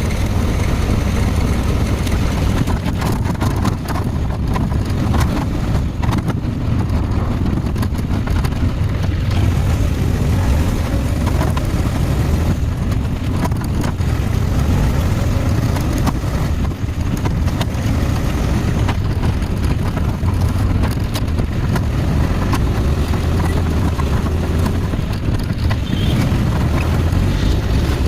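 A road vehicle on the move: a steady low rumble of engine and road noise.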